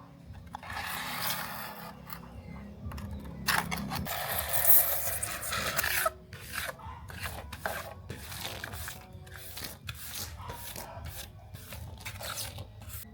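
Rasping and scraping on a small toy car part: two longer rubbing strokes in the first half, then a quick run of short scrapes and clicks.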